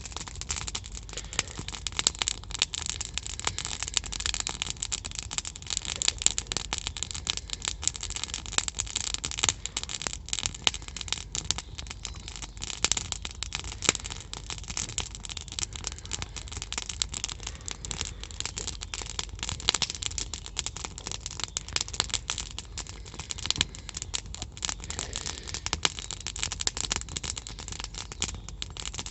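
Campfire burning with dense, continuous crackling and popping of burning wood.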